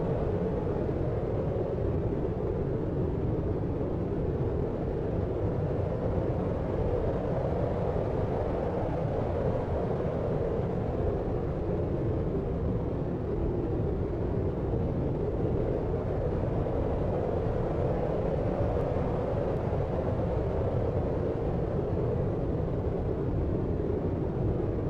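Deep white noise for sleep: a steady, low, muffled rushing sound, even and unchanging, with little treble.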